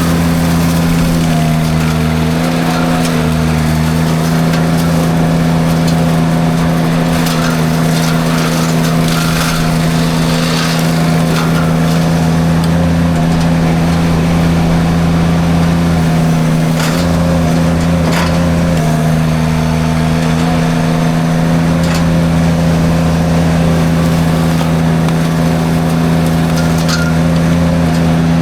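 Derette V1000 mini skid steer's engine running steadily at high throttle while it drives its forestry drum mulcher through brush. A few short cracks of wood and debris come over the engine a little past halfway and again near the end.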